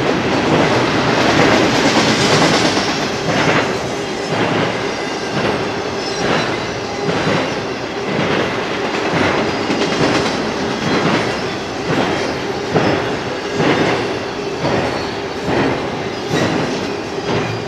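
Double-stack intermodal container train rolling past steadily, its well cars' wheels clicking over the track in a regular rhythm a little under a second apart, over a continuous rolling rumble.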